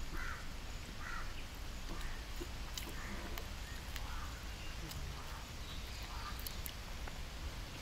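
Birds calling repeatedly, short calls about once a second, with a few faint clicks in between.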